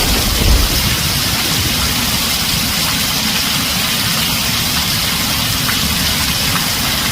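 Heavy rain drumming steadily on a tin roof, an even hiss with a low rumble underneath. The tail of a thunder rumble dies away within the first half second.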